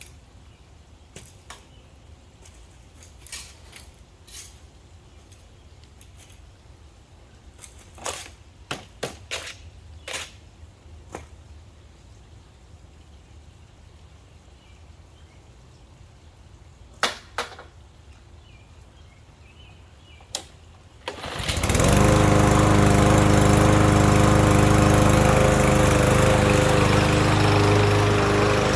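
For about twenty seconds there are only scattered light clicks and knocks. Then a lawn mower's engine starts up suddenly and runs loud and steady to the end.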